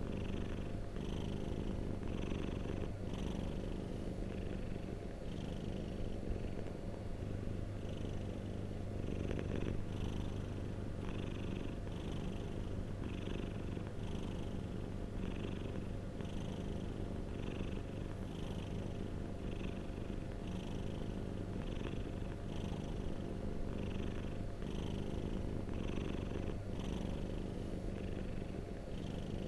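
Domestic cat purring close up, a steady low rumble with a soft breathy pulse about once a second.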